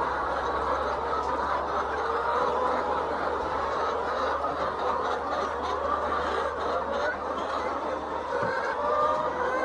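A flock of laying hens clucking and calling together, many overlapping voices in a continuous chorus, over a steady low hum.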